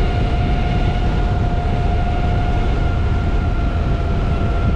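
Wind rumbling on the microphone of an electric unicycle riding at speed, with a steady high whine, the hub motor's sound at cruising speed.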